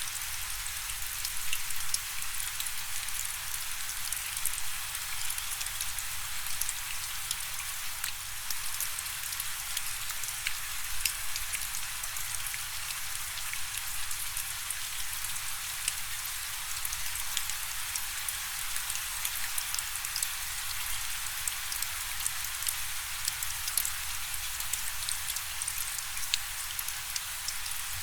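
Steady rainfall, a constant hiss of rain with many individual drop hits ticking through it.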